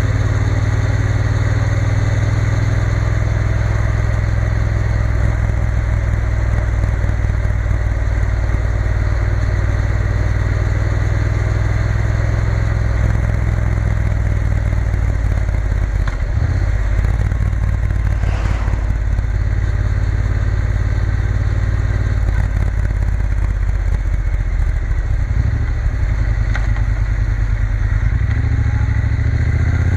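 Triumph Bonneville T120 parallel-twin engine running steadily at cruising speed, with a brief rush of sound a little past halfway. Near the end the engine pitch starts rising as the bike accelerates.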